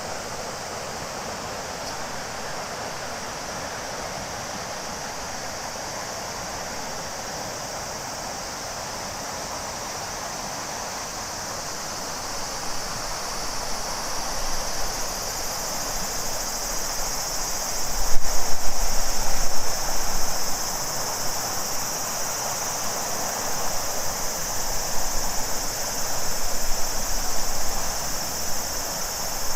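Steady rush of the Shimanto River's flowing water, joined about halfway through by a chorus of cicadas whose high, steady buzz swells and holds. Uneven low rumbles come and go in the second half, loudest about eighteen seconds in.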